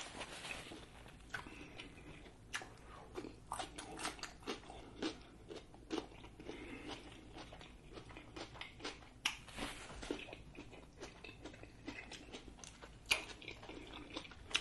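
Close-miked chewing with wet lip smacks and sharp mouth clicks coming irregularly, a few each second.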